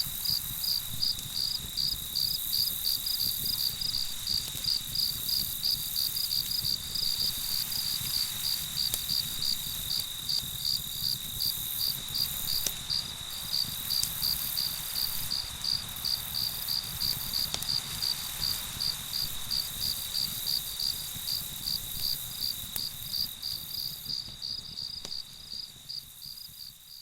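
Crickets chirping at night: one chirps in an even rhythm, about three chirps a second, over a continuous high trill from others, with a low rumble underneath. The chorus fades out over the last few seconds.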